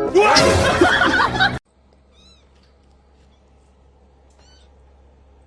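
A cat yowling loudly and harshly for about a second and a half, cut off suddenly. Then a low steady hum with two faint high chirps.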